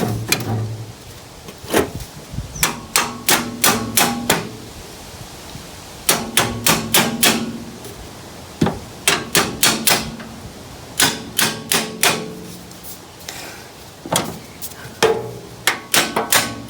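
Hammer blows on metal, in five bursts of several quick strikes each, with a short metallic ring after the blows.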